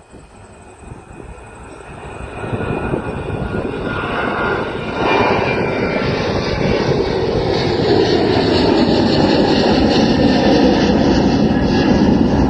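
Boeing 737-800's CFM56-7B turbofan engines at takeoff power, growing steadily louder, with a sudden jump about five seconds in, then running loud and steady.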